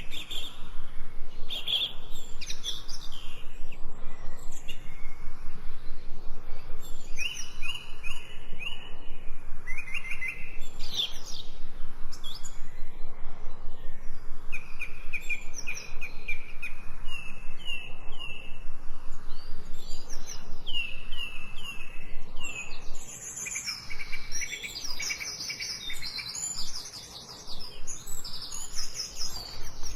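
Songbirds chirping and singing in a chorus of short, repeated phrases, one after another. A fast, even pulsing runs underneath and drops away briefly after the middle.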